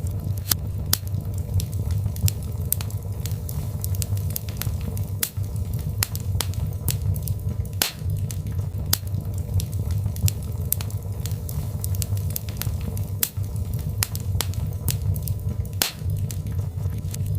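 Birch logs burning in a fireplace: a steady low rumble of the fire with irregular sharp crackles and pops, several a second.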